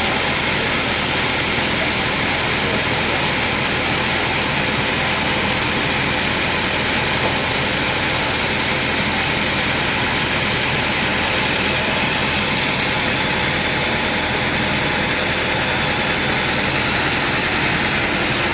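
Sawmill machinery running with a steady, unbroken engine-like drone.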